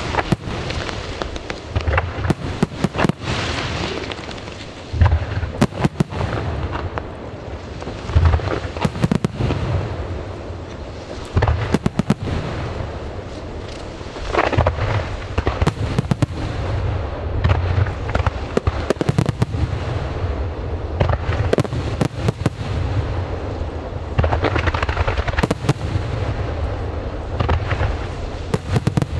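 Fireworks display: aerial shells bursting with booms and crackling in quick succession, one after another throughout, over a continuous low rumble of echoing explosions.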